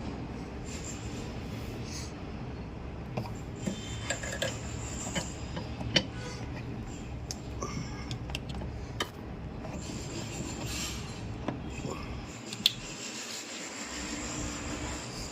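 Hard clinks and short scrapes of parts and tools being handled during a washing-machine gearbox repair, over a steady low rumble. Two sharp clinks stand out, about six seconds in and near the end.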